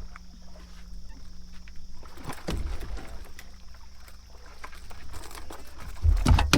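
Irregular knocks and clatter aboard a fishing boat, starting about two seconds in, over a steady low hum, with a heavy low rumble near the end.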